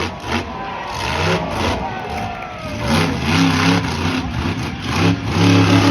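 Monster truck engine revving in short bursts, several times over a few seconds, its pitch climbing and dropping with each blip of the throttle.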